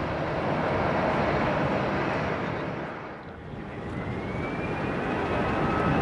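Airliner engine noise, a steady whoosh that dips about three seconds in and builds again, with a high whine coming in after the dip.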